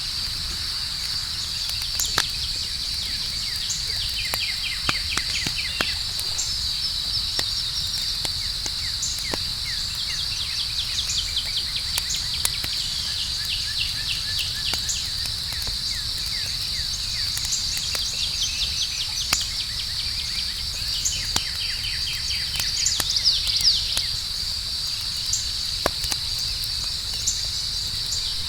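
Campfire crackling, with sharp pops scattered irregularly through it, over a steady high-pitched chorus of night insects such as crickets and their repeated chirping trills.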